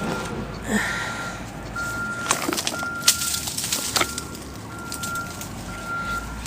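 Outdoor background with a low steady rumble, like distant traffic, and a faint high tone that keeps breaking off and coming back. There are a few sharp knocks and clatters around the middle, such as scraps being handled or landing.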